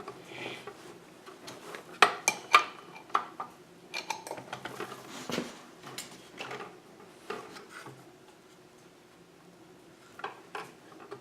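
Small metal parts of a miter saw's blade mounting clinking and clicking irregularly as the arbor bolt and washer are fitted and tightened with an Allen key. There is a quiet pause, then a few more clicks near the end.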